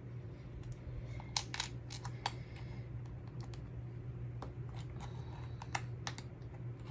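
Small plastic Lego pieces clicking and clattering as they are handled, pulled off and refitted to correct a misplaced piece. The clicks are sharp and irregular, over a steady low hum.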